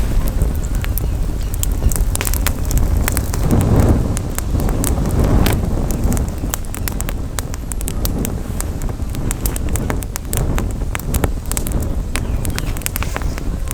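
Campfire crackling, with frequent sharp pops, over a steady low rumble of wind on the microphone.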